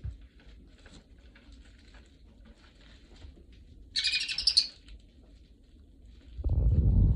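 A peach-faced lovebird gives one short, shrill chirping call about four seconds in, over faint scratching. Near the end comes a loud, low thumping rumble.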